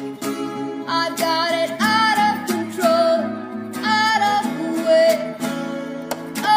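Acoustic guitar strummed, with a voice singing long, wavering notes without clear words from about a second in.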